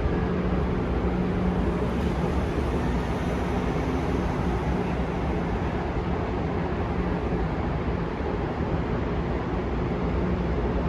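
Steady background rumble and hiss of a large car-show venue, with a low steady hum under it and no distinct event standing out.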